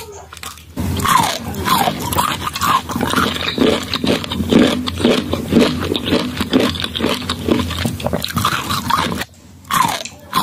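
Close-up chewing of crisp raw green mango slices: a dense run of loud, wet crunches. It starts about a second in and stops shortly before the end.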